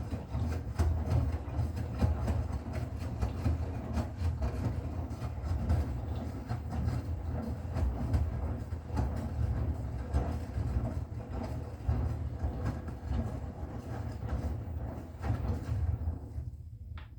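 Bosch Serie 6 washing machine running: a low rumble from the turning drum, with many small irregular knocks and clatters. It winds down and stops near the end.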